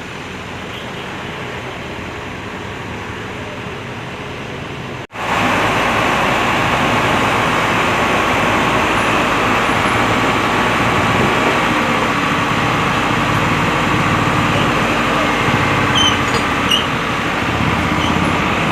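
Truck crane's diesel engine running steadily. An abrupt cut about five seconds in, after which it is much louder.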